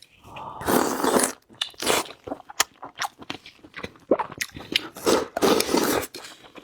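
A person biting into and chewing a piece of meat close to the microphone. Long noisy bites about a second in and again around five to six seconds in, with many short clicks of chewing between.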